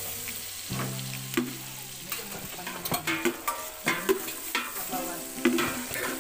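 Chopped garlic and onion sizzling in hot oil and margarine in a stainless steel pot, sautéed until the onion turns transparent, while a spoon stirs and scrapes against the pot's bottom and sides, its knocks coming more often from about halfway through.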